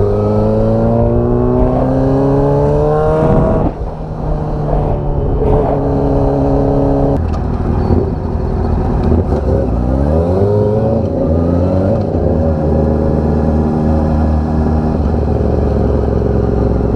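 Motorcycle engine under way, revs climbing for the first few seconds, then dropping suddenly at a gear change about four seconds in. It runs on at a steadier pitch, eases off and picks up again around ten seconds in.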